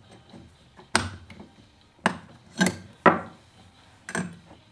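Five sharp metallic knocks and clinks of parts and tools being handled while a Husqvarna 240 chainsaw's bearings are worked on. The loudest comes a little after three seconds in.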